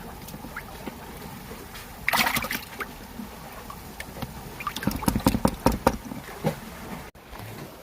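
Seawater sloshing with wind on the microphone. There is a short burst of splashy noise about two seconds in, and a run of sharp knocks and splashes around five to six seconds in.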